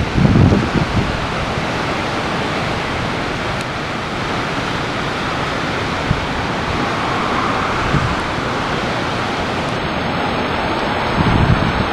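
Swollen floodwater rushing in a steady, loud torrent. Low gusts of wind buffet the microphone just after the start and again near the end.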